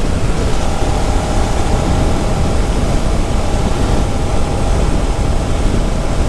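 Suzuki SV650X's 645 cc V-twin engine running at a steady road speed on the move, under a constant rush of wind and road noise.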